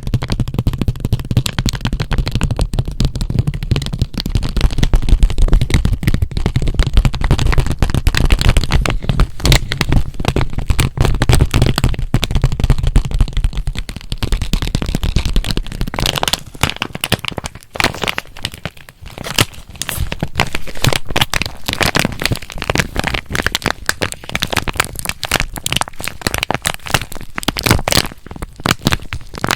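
Fingers tapping, scratching and squeezing a cat-paw squishy sealed in its plastic package, a dense run of crackling clicks. A low rumble sits under the first half, and the crackles turn sharper and more spaced about halfway through.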